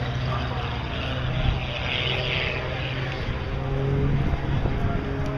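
Propeller airplane engine droning steadily, over a hiss of background noise.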